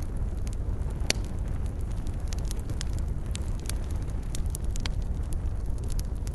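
Wood fire burning: irregular sharp crackles and pops over a steady low rushing sound, with the loudest pop about a second in.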